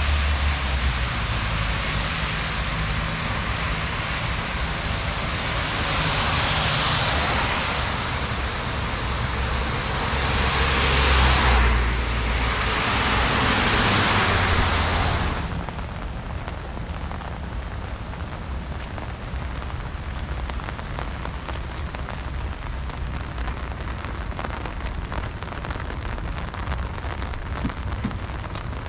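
Heavy rain falling on a city street. In the first half, tyres of several passing vehicles hiss past on the wet road, each rising and fading. After about fifteen seconds the traffic noise falls away, leaving a steady patter of rain.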